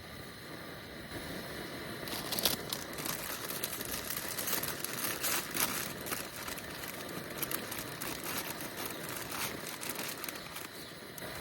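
Irregular crinkling and crackling rustle, as of something being handled, starting about a second in and easing off near the end.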